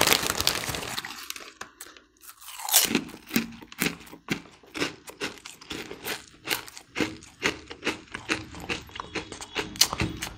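Crunchy king-crab-flavoured puffed snack being chewed with the mouth close to the microphone: a run of sharp crunches, about two or three a second, starting about three seconds in. The foil snack bag rustles briefly at the start as a handful is taken.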